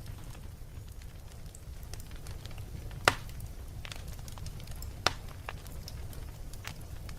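Wood fire burning in a fireplace: scattered crackles and pops over a low, steady rumble of flame, with two sharp, louder pops about three and five seconds in.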